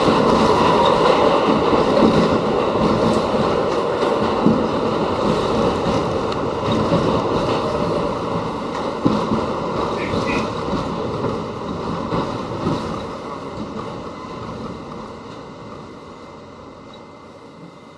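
New York City subway train running, a steady rumble that gradually fades out.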